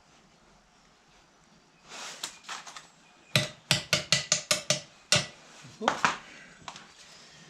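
Small metal parts clinking and knocking together as they are handled: a short rustle, then a quick run of about seven sharp, slightly ringing metal clinks in under two seconds, and two more a moment later.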